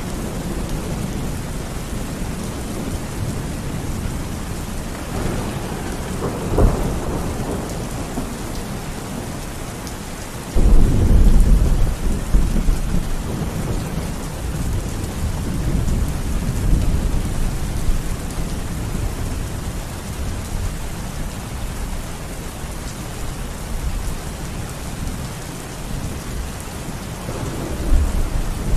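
Steady rain in a thunderstorm. A short sharp thunder crack comes about a quarter of the way in, then a loud low thunderclap starts suddenly a few seconds later and rumbles away over several seconds, and another rumble builds near the end.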